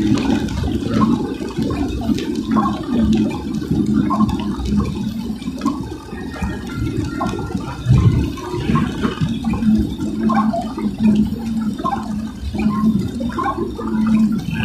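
Car driving in the rain, heard from inside the cabin: a steady low rumble of engine and tyres on the wet road, with a water-like hiss and splash.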